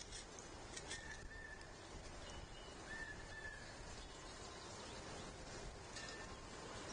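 Wild birds calling outdoors: three short, level whistled notes and a few brief chips over a steady background hiss.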